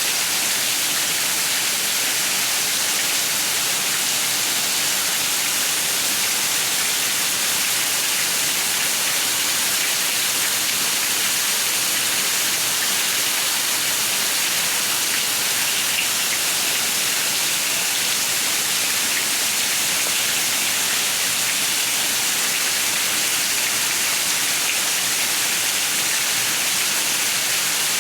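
Steady rain: an even, unchanging hiss, strongest in the high range, with no separate drops or thunder standing out.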